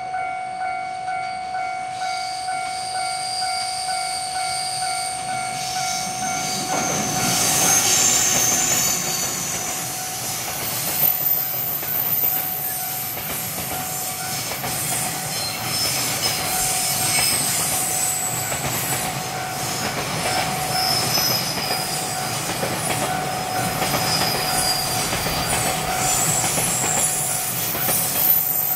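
A level-crossing warning bell rings steadily in a quick repeating beat. About seven seconds in, a JR Freight EF210 electric locomotive hauling container wagons passes as it climbs the steep grade, and the train runs on with high wheel squeal and clacking over the rail joints.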